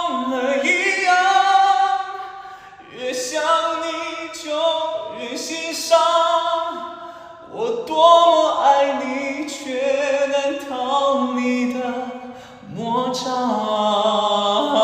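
A singer's voice singing unaccompanied in a high range, in several phrases of long held notes with vibrato, each phrase broken off by a short breath.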